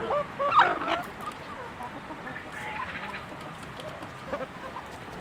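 Chickens clucking and calling, with one loud short squawk about half a second in followed by scattered quieter clucks.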